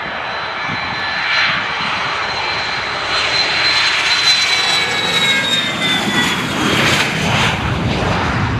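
An airplane's engines running as it passes: a steady roar with a high whine that slowly falls in pitch.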